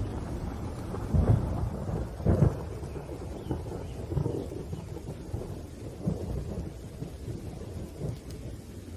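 Thunder rumbling low under steady rain, with two loud claps about a second and two seconds in, then weaker rolling rumbles.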